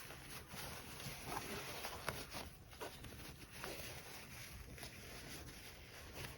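Rustling of fabric being handled, with a few short light clicks from small sewing tools.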